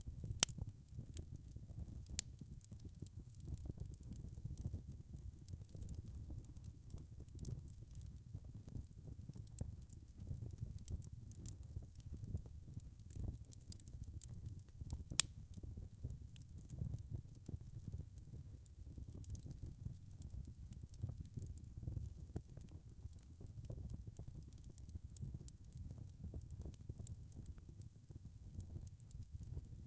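Wood fire burning in a fireplace: a low steady rumble with frequent small crackles and pops, two of them sharper, about half a second in and about fifteen seconds in.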